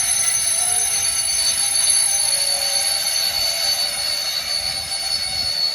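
Class 66-hauled freight train screeching as it runs through the station: a loud, steady metallic squeal of several high held tones.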